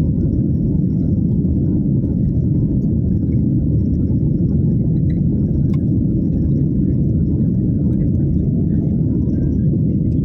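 Airliner cabin noise: a steady, low rumble from the engines and airflow, even in level throughout.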